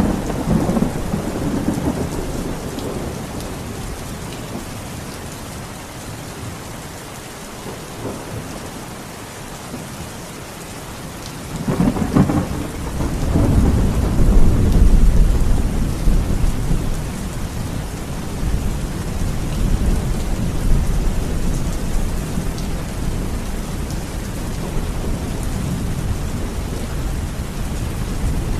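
Steady rain with rolling thunder. A rumble fades out over the first few seconds, then a louder peal breaks about twelve seconds in, swells for a few seconds and trails off into a long, low rumble under the rain.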